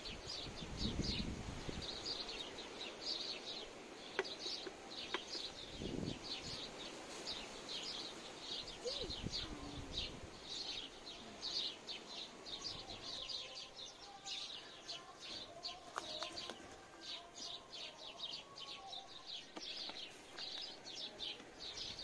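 Birds chirping steadily, many short high chirps each second. There are a couple of soft low thumps, about a second in and again about six seconds in.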